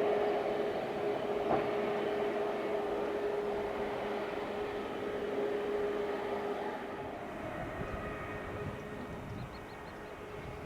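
Jet engines of a departing Airbus A321neo airliner after takeoff: a steady noise with a held tone, gradually fading as it climbs away.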